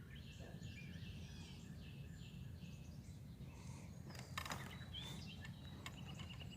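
Several songbirds singing faintly in short repeated high phrases, over a steady low background rumble. A brief rustle or scrape about four and a half seconds in.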